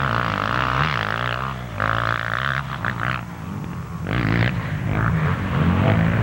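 Motocross bike engines revving on the track, their pitch rising and falling as the riders work the throttle, with a raspy edge that swells and fades.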